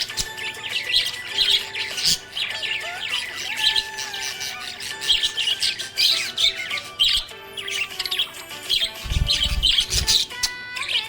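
Budgerigars chirping and warbling in rapid clusters of short, overlapping high calls, with a brief low rumble about nine seconds in.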